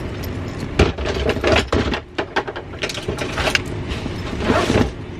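Irregular clicks and knocks over a steady low rumble.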